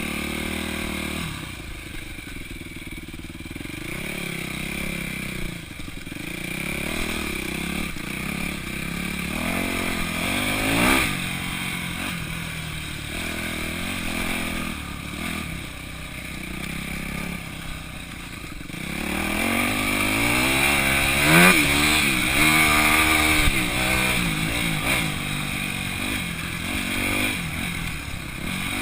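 Four-stroke single-cylinder dirt bike engine heard from the rider's chest, revving up and falling back again and again while riding. It runs harder and louder for the last third.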